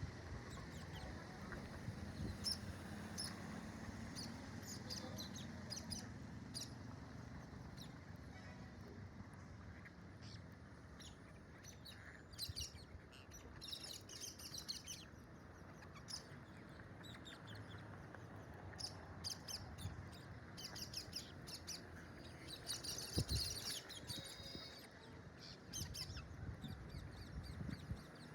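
Parakeets chirping and calling in short, high chirps, in flurries around the middle and again near the end, over a faint low rumble.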